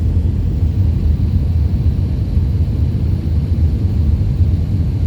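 Airbus A319 airliner during landing: a steady low rumble that holds even throughout.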